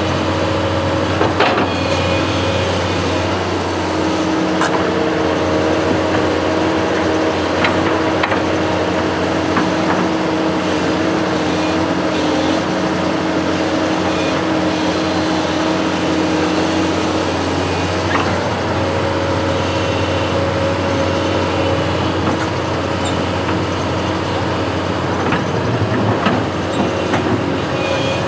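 A construction machine's engine running steadily throughout, with a few sharp clicks or knocks from the machine scattered across it.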